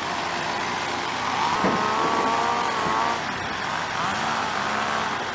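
Excavator's diesel engine running under load, with hydraulics working as the machine levers itself off the truck on its bucket. The engine pitch swings down and up in the middle.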